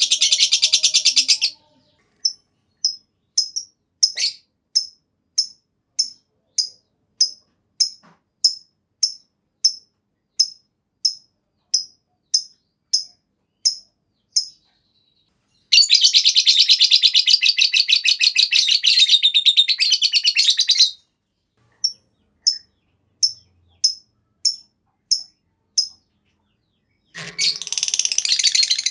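A lovebird calling: a run of single sharp chirps about one and a half a second, broken by long, rapid chattering trills, the 'ngekek panjang' long chatter, the longest lasting about five seconds midway and another starting near the end.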